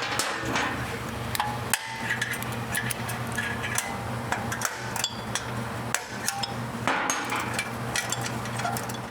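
Hand tools clinking and knocking irregularly against metal motorcycle exhaust hardware, with some short metallic ringing, over a steady low hum.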